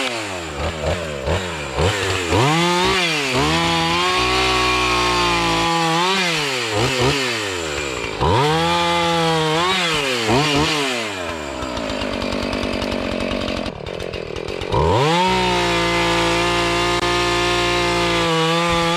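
Two-stroke chainsaw revving, the throttle blipped up and down again and again, then held at high revs for several seconds at a time while cutting up fallen trees and brash.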